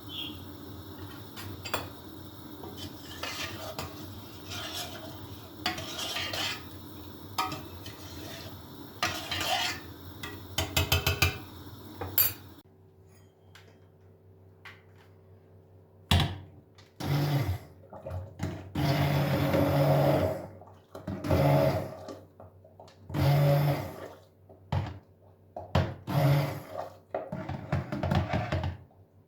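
Kitchen dishes and cutlery clinking and being set down over a steady background hum. About twelve seconds in the hum drops away, and a string of short rushing bursts with a low hum in them follows.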